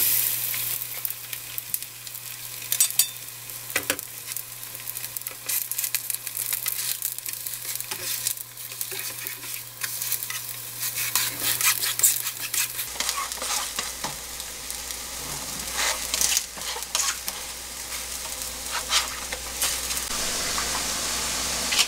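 Battered perilla leaves (kkaennip-jeon) frying in oil in a nonstick pan: steady sizzling with scattered crackles and clicks.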